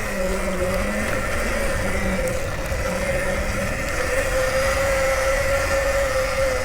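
Nexvey Flash electric dirt bike's motor whining at a nearly steady pitch while riding at a steady speed, over a low rumble.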